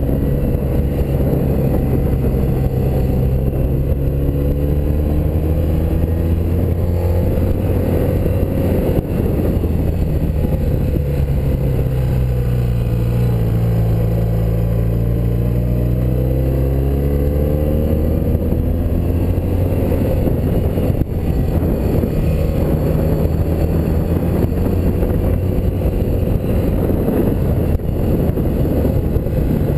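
1984 BMW R100RS air-cooled flat-twin boxer engine running under way, with wind noise. Its pitch drops about twelve seconds in as the bike slows, then rises again as it picks up speed.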